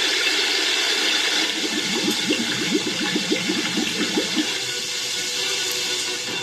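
Steady rushing, hissing water, with a quickly wavering warbling tone over it in the middle that fades out.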